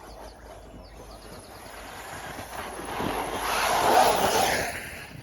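Team Corally Muraco 6S electric RC truggy passing close by, its motor and tyres swelling to a peak about four seconds in and then fading.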